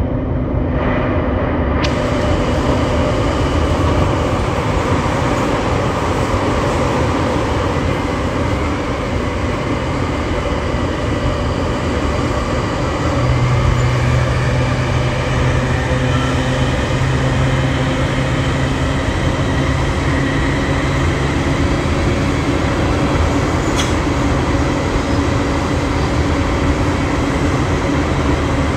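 JR Musashino Line electric commuter train running between stations: a steady rumble of wheels on rail with a humming drive note. A low hum grows stronger from about 13 to 19 seconds in.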